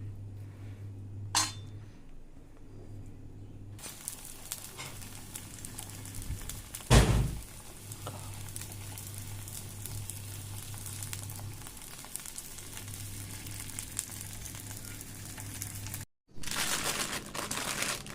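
Chicken mince kabab cutlets shallow-frying in a pan on low heat, a steady sizzle that starts about four seconds in. There is a sharp clink about a second in and a loud knock about seven seconds in. Near the end the sound drops out for a moment and comes back as louder sizzling.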